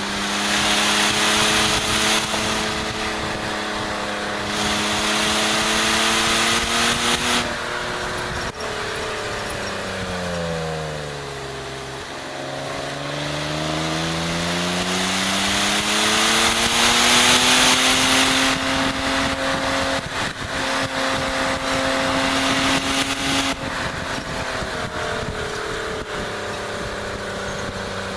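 BMW E36 325is straight-six engine running hard around a race track. The engine note holds steady, falls over a few seconds as the car slows, climbs back as it accelerates, then holds high and drops again near the end. Wind noise on the outside-mounted microphone comes and goes in rushing stretches.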